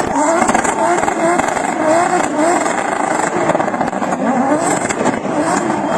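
Drift car engine revving hard in quick, repeated rising pulses over a steady rush of noise.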